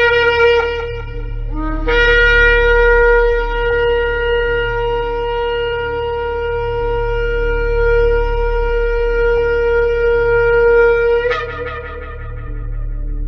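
Shofar blasts: one blast ends just after the start, then a short lower note jumps up into a long, steady blast of about nine seconds, which breaks upward in pitch and fades near the end.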